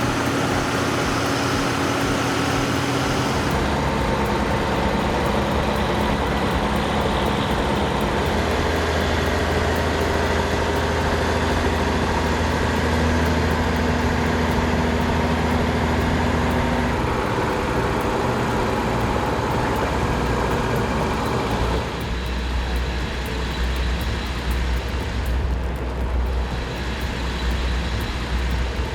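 Heavy vehicle engines running steadily under load. The engine sound changes abruptly three or four seconds in, again past the middle, and again a few seconds later, as different machines are heard.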